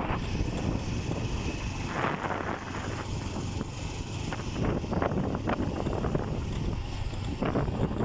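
Bajaj Pulsar 150's single-cylinder four-stroke engine running steadily under way, under heavy wind buffeting on the microphone with short irregular gusts.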